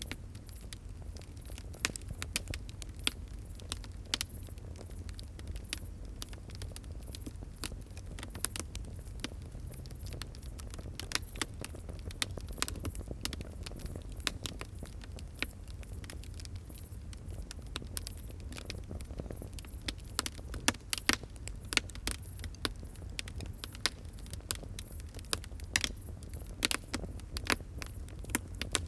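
Wood fire crackling, with irregular sharp pops and snaps over a low steady rumble of burning; the pops come thicker about two-thirds of the way through.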